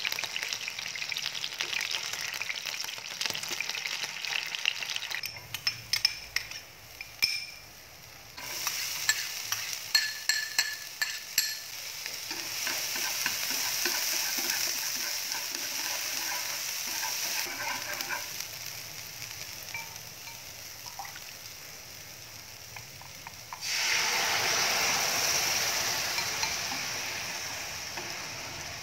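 Food frying in a nonstick pan: chicken drumsticks sizzling in shallow oil, then minced garlic and onion sizzling while stirred, with clicks of utensils against the pan. A louder sizzle starts suddenly near the end, as red chili sauce cooks and is stirred in the hot pan, then slowly dies down.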